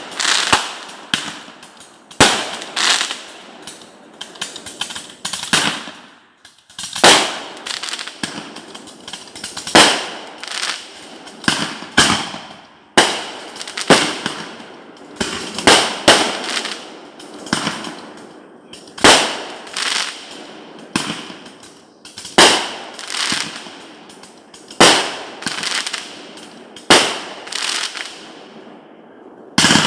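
Consumer fireworks going off in quick succession: sharp bangs roughly every one to two seconds, each followed by a crackling tail.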